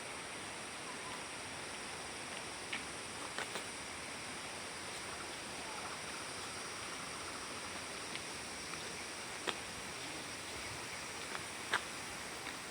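Steady forest ambience: the even rushing haze of a distant waterfall under a high, constant insect drone, with a few faint clicks scattered through it.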